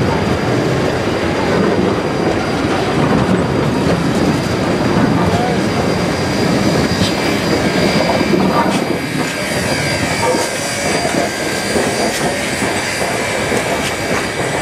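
A passenger train hauled by a 4-4-0 steam locomotive rolling past at low speed: a steady rumble of coach and locomotive wheels on the rails, with sharp clicks over the rail joints. The sound eases off near the end as the train moves away.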